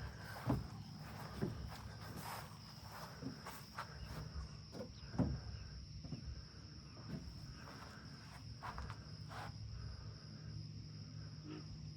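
Steady high-pitched insect trill, like crickets, with irregular footsteps along a trail.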